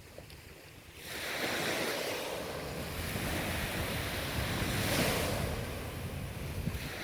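Ocean waves surging on the shore: after a brief lull, a wave comes in about a second in and its surf washes for several seconds before easing near the end. Wind rumbles on the microphone underneath.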